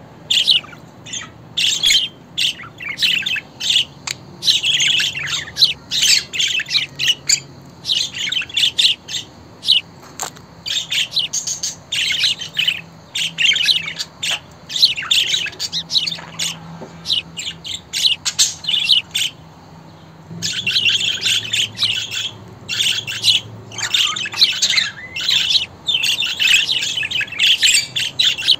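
Budgerigars chattering: a stream of quick chirps, warbles and squawks, with a brief lull about two-thirds of the way through before the chatter picks up again.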